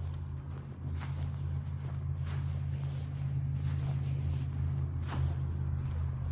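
Footsteps on a walking path, a crisp step about every second, over a steady low rumble.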